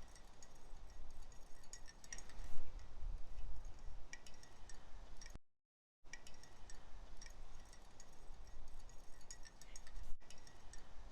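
Light, scattered clinks and ticks of crockery, like cups and spoons on a tea table, over a low room rumble. The sound drops out completely for a moment about halfway through, then the clinking carries on.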